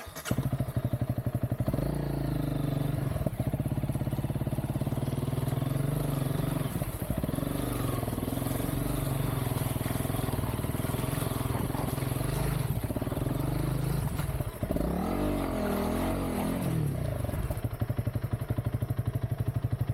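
Honda CRF300L single-cylinder four-stroke engine starting up and then running under varying throttle as the dirt bike climbs a muddy track. About fifteen seconds in, a few quick revs rise and fall in pitch, and then the engine settles to a steady idle.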